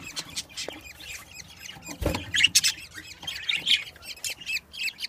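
Budgerigars chirping in rapid, repeated high-pitched calls, with a single knock about two seconds in.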